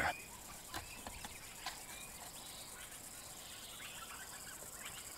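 Faint bush ambience with scattered short bird calls and a few soft clicks.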